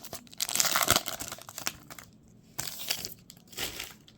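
Plastic wrapper of a trading-card pack being torn open and crinkled, a dense burst of crackling about a second in, then two shorter crinkles.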